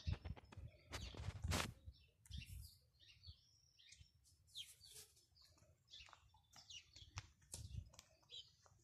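Faint, scattered chirping of small birds, with a couple of brief rustles in the first two seconds.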